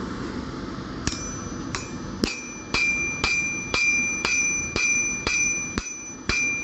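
Blacksmith's hammer striking steel on an anvil while forging a knife blade. The blows are evenly spaced, about two a second, and start about a second in; each leaves a bell-like ring.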